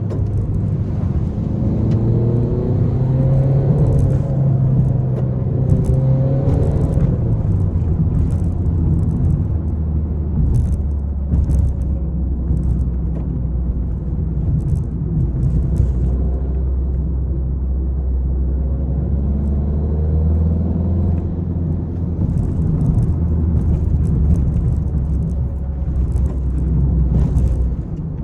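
Peugeot 301 car engine under hard driving. Its pitch climbs and then drops back early on, as with a gear change, then holds at a lower, steady drone before rising again. Short scattered ticks and clicks come over the top.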